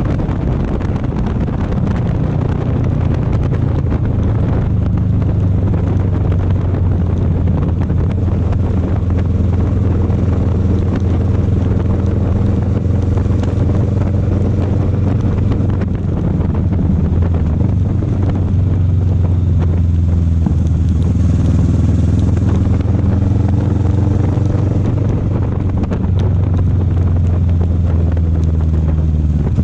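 Motorcycle engine running steadily while riding, its note stepping up and down in pitch a few times, with wind rushing over the microphone.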